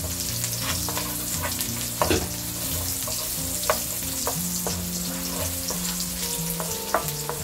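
Minced garlic sizzling in hot oil in a nonstick wok, stirred with a wooden spoon that scrapes and taps the pan every second or so, with one louder knock about two seconds in.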